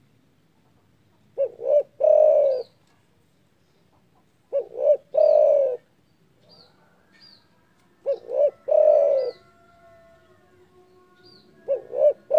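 Spotted dove (derkuku) cooing. It repeats one phrase four times, about every three and a half seconds: two short notes and then a longer note that falls in pitch. The last phrase runs on past the end. Faint high chirps sound in the gaps.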